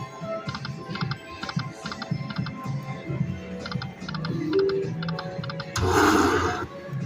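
Lightning Link Eyes of Fortune slot machine's electronic game sounds: quick ticking chimes repeating as the reels spin and land, over the machine's music. A loud rushing burst sounds about six seconds in and lasts under a second.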